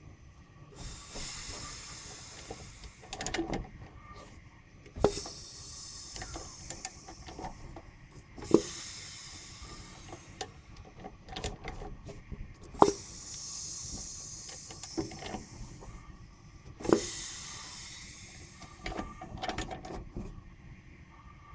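Sharp knocks from a Ford Focus II 1.6 petrol engine, about every four seconds, each followed by a few seconds of hissing, with smaller clicks between. The owner places the knock at the joint of connecting rod, piston pin and piston.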